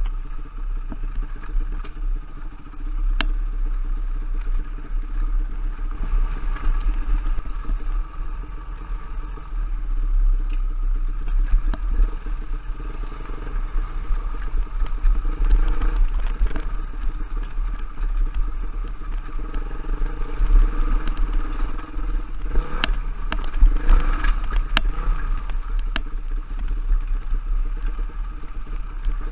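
Enduro trail motorcycle engine running with rising and falling throttle while riding over rough ground, with clatter and several sharp knocks about three-quarters of the way through.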